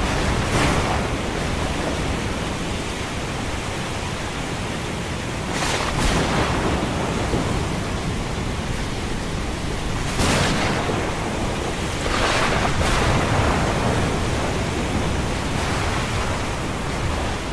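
Ocean waves breaking every few seconds over a steady rushing hiss of surf and rain.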